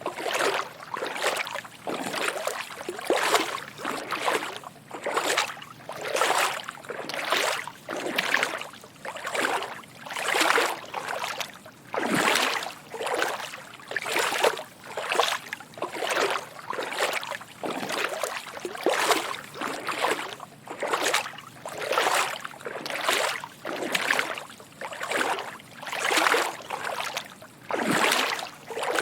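Footsteps wading through shallow water: a steady rhythm of soft sloshing splashes, about one to one and a half a second, each stride swelling and fading.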